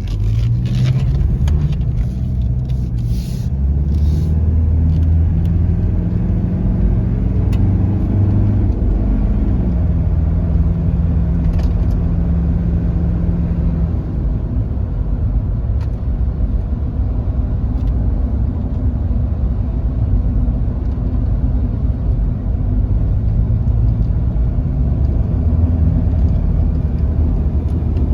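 Toyota Land Cruiser Prado KZJ95's 1KZ-TE 3.0-litre turbo-diesel engine running under way with a steady low rumble. The engine note rises about eight seconds in, holds, then settles. A few short clicks come in the first few seconds.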